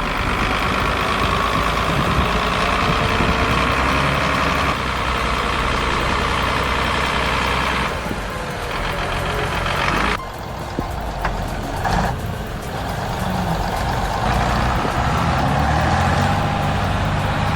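Heavy diesel engines of tractors and recovery vehicles running hard, pulling a bogged tractor out of soft ground. The sound changes abruptly about ten seconds in, then goes on as steady engine noise.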